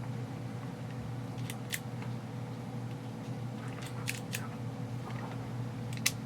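Several sharp clicks of the APS UAR airsoft gun's trigger parts being worked by hand, the parts stiff and bent, over a steady low hum.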